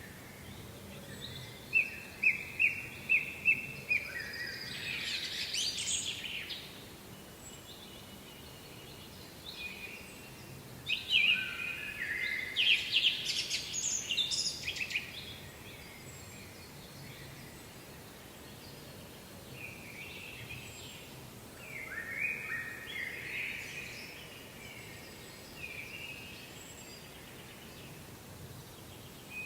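A songbird singing in separate phrases, three times, each a run of quick repeated notes ending in a brighter, higher flourish, over steady background noise.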